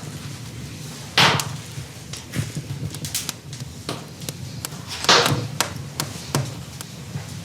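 Two loud, sharp knocks about four seconds apart, with small clicks and taps between them.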